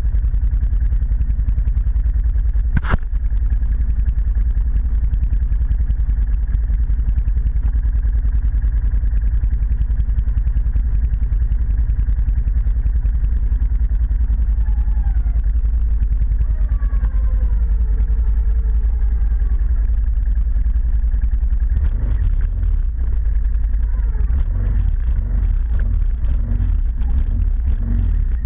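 ATV engine running steadily, with a sharp click about three seconds in and a run of rattling knocks over the last several seconds.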